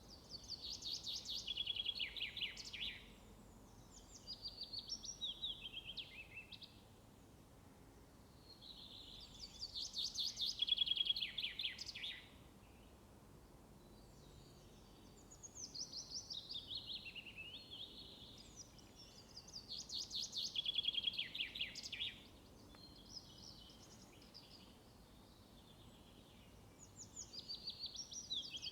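A songbird singing the same phrase over and over: a quick run of high notes falling in pitch, about three seconds long, repeated every few seconds over faint background noise.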